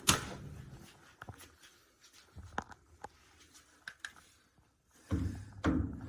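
Handling noises: a sharp knock at the start, scattered single clicks, then a short stretch of knocking and rustling near the end.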